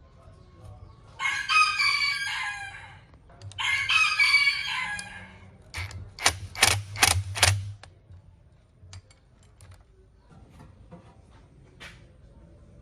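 A rooster crowing twice, each call about two seconds long, followed by about six sharp knocks in quick succession and a few faint clicks.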